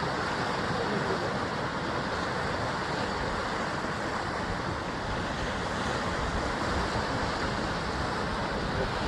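Sea waves washing against a rocky basalt-column coastline, a steady rushing surf with no distinct break standing out, with some wind.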